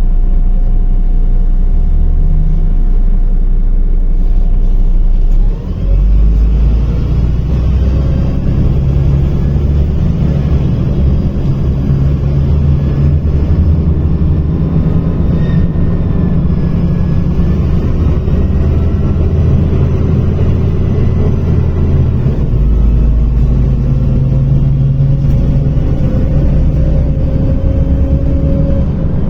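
MAZ-105 articulated diesel city bus heard from inside the cabin: steady engine drone, then a short drop in level about five seconds in, after which a rougher, stronger engine and road rumble carries on as the bus drives.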